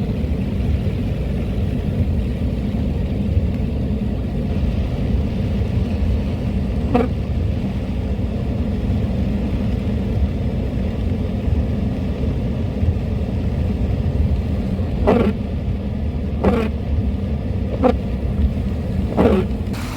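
Steady low rumble of a car driving, with a short knock about seven seconds in and four more in quick succession near the end.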